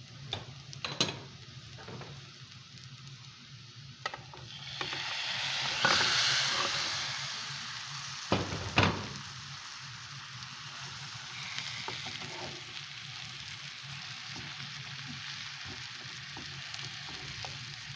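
Food sizzling in hot oil in a pan: the sizzle swells about five seconds in, then slowly dies down to a steady frying hiss. There are sharp knocks of a utensil against the pan about a second in and twice between eight and nine seconds.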